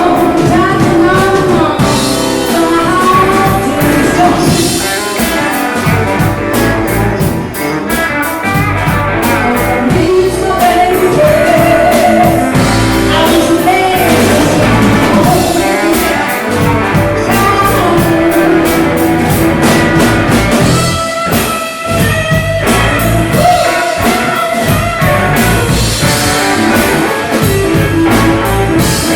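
A rock band playing a blues-rock song: a voice singing over electric guitar and a drum kit.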